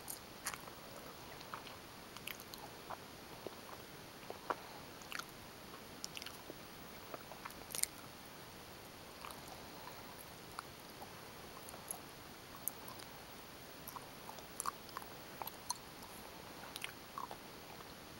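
Gummy bears being chewed close to the microphone: irregular small mouth clicks and smacks, a few every second, over a steady hiss.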